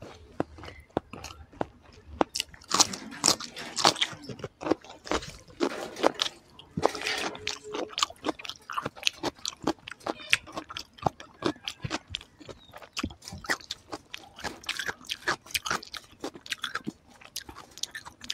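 A person chewing a mouthful of rice and curry close to the microphone, with many irregular wet smacks and crunchy bites.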